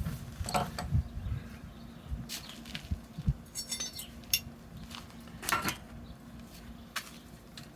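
Light metallic clinks and knocks of tools and small metal parts being handled, scattered irregularly, with a short run of rapid clicks about halfway through.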